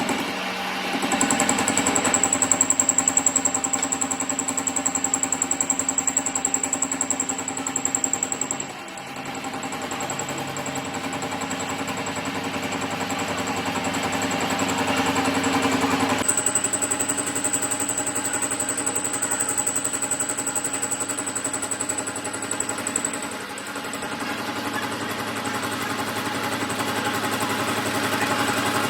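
A machine running steadily, with an even mechanical hum. A thin high whine joins it for two long stretches, early on and again past the middle.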